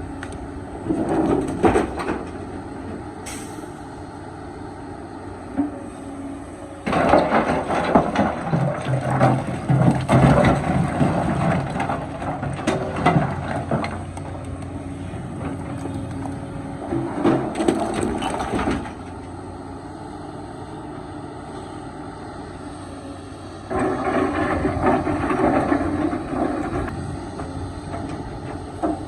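Excavator engine running steadily, with four spells of loud crunching and scraping as the bucket digs into rock, the longest lasting several seconds in the middle.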